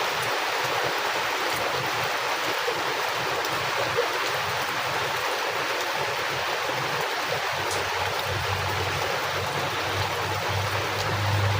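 Heavy rain pouring down steadily, with a low rumble of wind swelling in the last few seconds.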